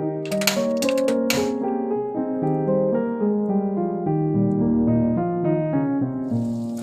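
Background piano music, a gentle run of keyboard notes, with three short sharp clicks within the first second and a half.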